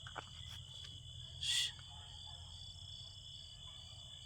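Crickets chirring in a steady chorus, with one short hissing burst about a second and a half in.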